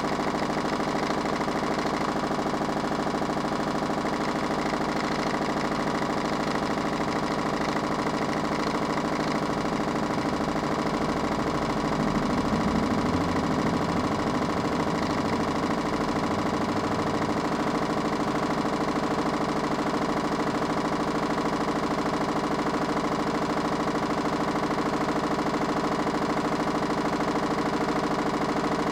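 Minicolo mini washing machine running, its motor giving a steady multi-toned hum, with a heavier low rumble swelling for a few seconds midway.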